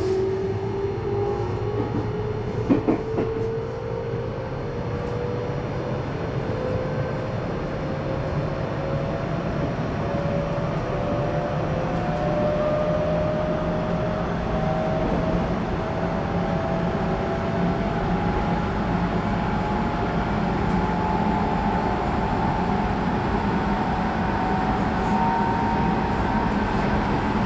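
Tobu 20400 series electric train with Toyo GTO inverter, heard from inside a motor car: the traction motor whine climbs slowly and steadily in pitch as the train picks up speed, over a steady running rumble. A short sharp clatter comes about three seconds in.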